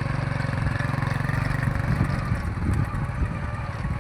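An engine running steadily with an even pulsing beat, a little louder and more uneven about halfway through.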